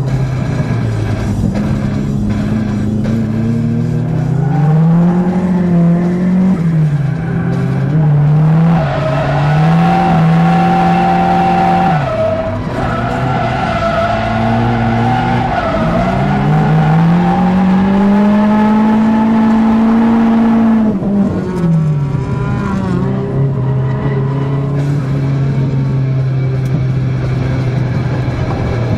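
Nissan 180SX drift car's engine, heard from inside the cabin, revving up and down through the corners. Twice it is held high for several seconds, with tyre squeal as the car slides.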